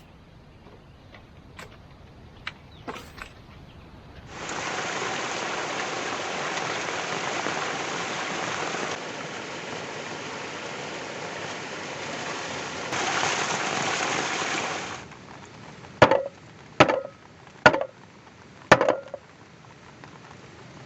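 Rain falling steadily as an even hiss for about ten seconds, then four sharp knocks about a second apart.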